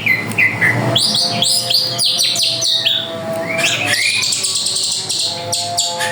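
A drongo singing energetically: a fast, varied string of sharp chirps and whistled notes sliding up and down, with a quick run of rapid notes about a second in. Steady low tones sound underneath.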